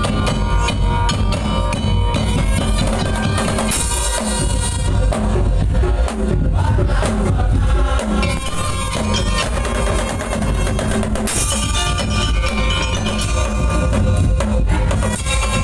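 Daul Madura ensemble playing: loud, fast, driving drum and percussion rhythm with a held melodic line over it.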